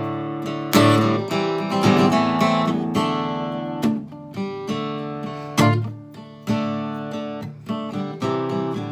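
Acoustic guitar strummed and picked in a blues pattern, a guitar break between sung verses.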